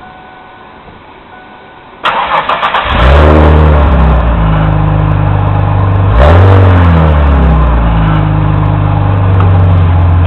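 1993 Ford Thunderbird's exhaust as the engine is cranked by the starter for about a second, catches and flares up, then settles to a steady idle. About four seconds later it is given one brief rev and drops back to idle.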